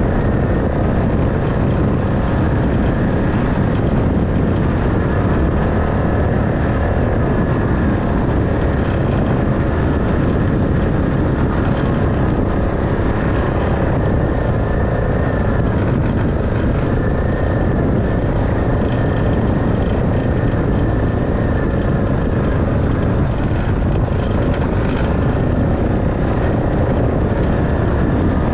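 A vehicle engine running at a steady speed, its level unchanging throughout.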